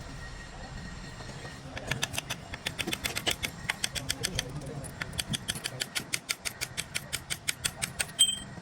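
Rapid, evenly spaced metallic tapping or clicking, about five or six strokes a second, starting a couple of seconds in. It ends near the end with one sharper metal clink that rings briefly.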